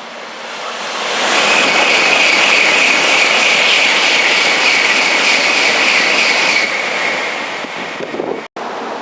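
Shinkansen train rushing by at speed: a loud rush of air and wheel noise with a steady high whine that builds about a second in and eases off after about seven seconds.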